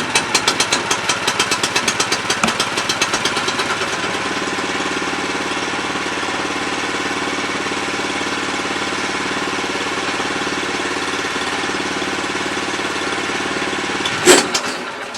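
Small engine of a Wood-Mizer LX25 portable sawmill running just after starting, a rapid uneven beat at first that evens into a steady run after about three seconds. Near the end comes one sharp bang, and the engine sound then dies away.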